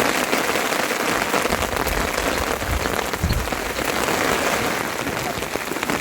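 Steady rain falling, with a fine patter of individual drops, and a brief low rumble about three seconds in.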